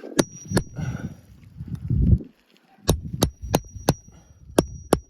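A hammer striking a metal nail-pulling tool gives sharp taps with a high metallic ring. There are two taps near the start, then six more, each about a third of a second apart, in the second half. A dull thump comes in between.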